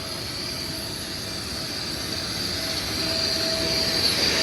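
Steady high-pitched whine of an aircraft turbine on the ramp over a bed of noise, growing a little louder near the end.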